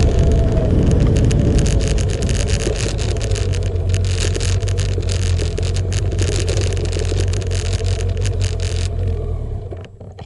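Motorcycle engine running steadily while riding, with wind rushing and crackling on the microphone. The sound drops away sharply near the end.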